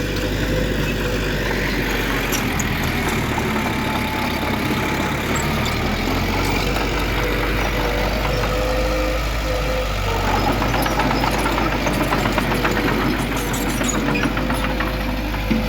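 Heavy earthmoving machine's diesel engine running steadily, with a constant whine above the rumble. A rapid clatter joins about ten seconds in.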